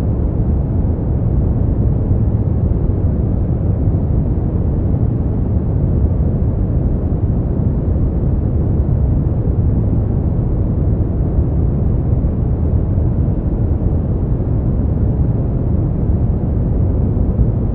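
Steady, unchanging generated noise, deep and rumbling with almost no treble, more like brown noise than bright white noise.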